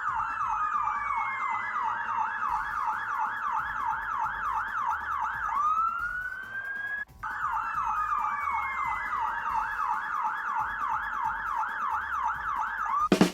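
Fire engine siren sound effect: fast repeating pitch sweeps, about three a second, that change to one slower rising sweep a little past halfway, stop briefly, then resume.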